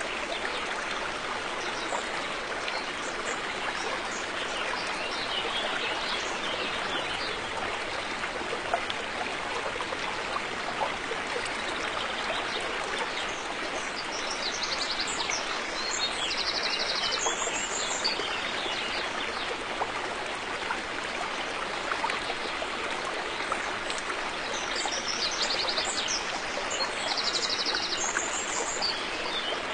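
River water flowing and rushing steadily. A bird sings a short high chirping phrase about halfway through and repeats it near the end.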